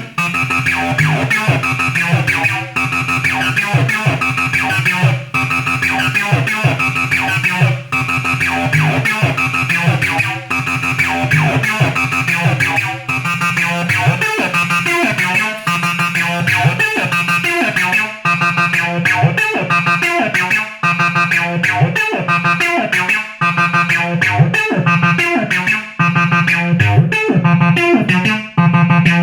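Acid music from a Behringer TD-3, a TB-303-style analog bass synthesizer, running a repeating sequenced pattern that drops out briefly about every two and a half seconds. From about two-thirds of the way through, a busier pattern of high ticks joins.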